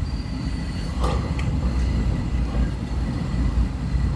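A vehicle's engine running steadily, a low rumble, with a few light clicks about a second in.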